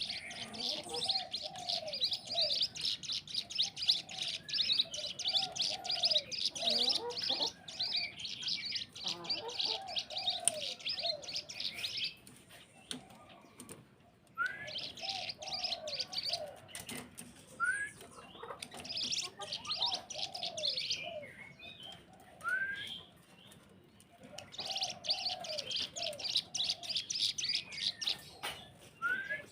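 Songbird chorus: long spells of rapid, high-pitched chattering chirps over repeated lower falling notes, with short rising whistles. The song breaks off twice for a couple of seconds before starting again.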